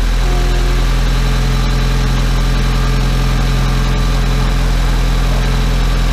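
Mitsubishi Lancer Evolution X's 2.0-litre turbocharged four-cylinder engine idling steadily, with no revving.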